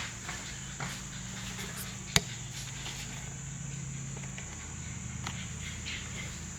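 Plastic interior trim being handled, with one sharp click about two seconds in as a retaining clip lets go, over a steady low hum.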